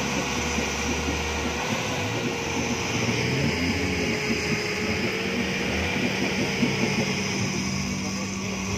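Off-road 4x4 engines running in a muddy gully, one note wavering slightly up and down, and a second steady engine note coming in about five seconds in.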